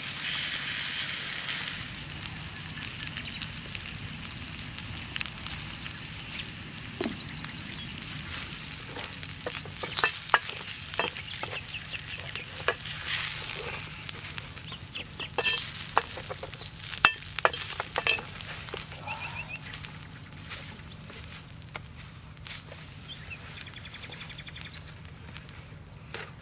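Liver sizzling on a hot rock, with a run of sharp crackles and pops in the middle. Short bird calls chirp in the background now and then.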